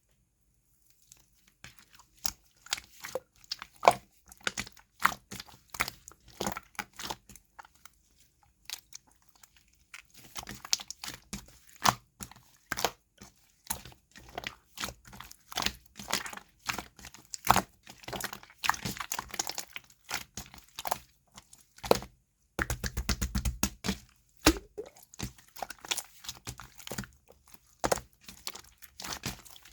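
Slime being squeezed, pressed and poked by hand, giving irregular crackling clicks and pops. The clicking pauses about a third of the way in and thickens into a dense, rougher crackle a little past two-thirds.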